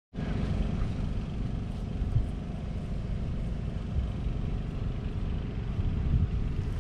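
John Deere 6145R tractor's 6.8-litre six-cylinder diesel engine running with a steady low rumble.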